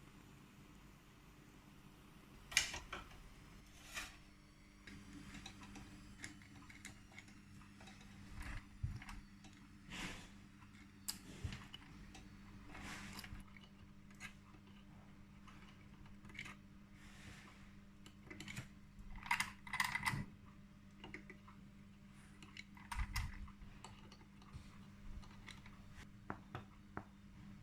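Faint, irregular light clicks, taps and clinks of small hard objects being handled, over a steady low hum.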